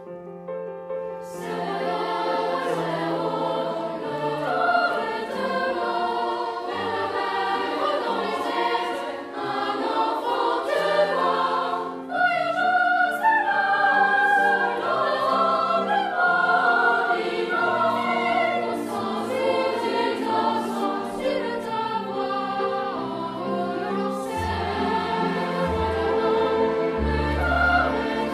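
Choral music: a choir singing with instrumental accompaniment, coming in fuller about a second and a half in.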